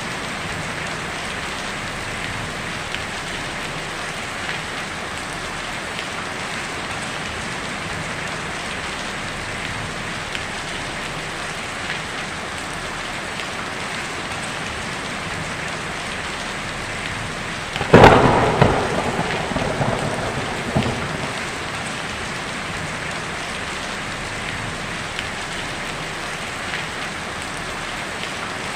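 Heavy rain falling steadily on a tin roof. About two-thirds of the way through, a sudden loud thunderclap cracks and then rumbles away over a few seconds.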